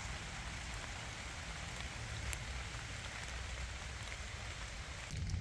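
Steady rain falling in a forest: an even hiss with scattered single drops ticking. A low rumble underneath grows louder just before the end.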